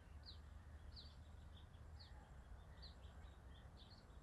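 Faint bird chirps: short, high notes that fall in pitch, repeated about once or twice a second, over a low steady hum of background noise.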